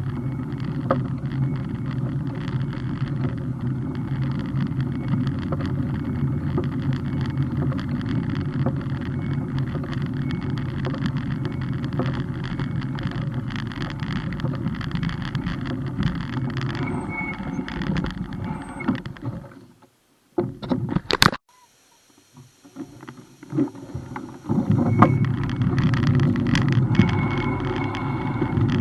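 Steady rumble of wind and road noise on a camera riding on a moving bike. About two-thirds of the way through it drops out to near silence for a few seconds, broken by a couple of short clicks, then the rumble comes back.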